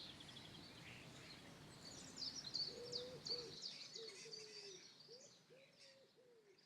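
Faint birdsong: many small birds chirping in quick high notes. About three seconds in, a low call joins them, repeated several times. The sound fades out near the end.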